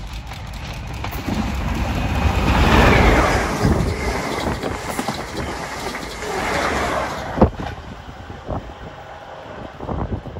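GWR High Speed Train (HST), a diesel power car and coaches, passing at speed close by: a rumbling, rushing noise of wheels on rail that swells and fades twice, with one sharp knock after the second swell.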